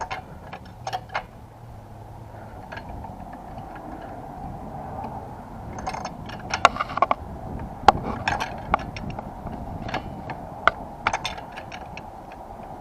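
Metal hand tools clinking and clicking in irregular sharp strikes, busiest from about halfway through.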